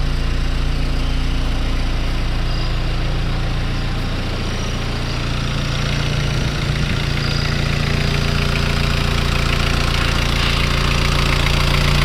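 Kubota V1505 four-cylinder diesel engine running steadily, slightly quieter around the middle and a little louder near the end.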